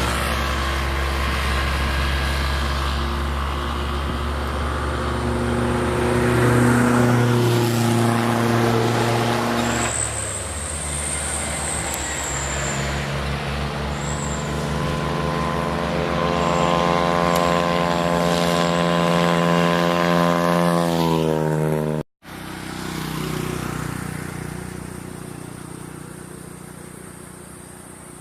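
Truck engine working hard, its pitch dropping about ten seconds in and then climbing steadily for several seconds as it revs up, with a brief high squeal along the way. The sound cuts off suddenly, then a quieter vehicle sound fades away.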